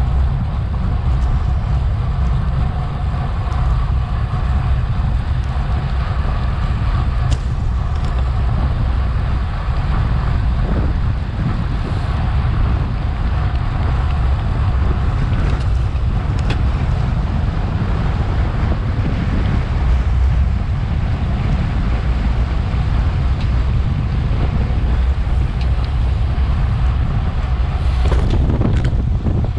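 Wind buffeting a Garmin VIRB action camera's microphone as the bike races along, a steady loud low rumble.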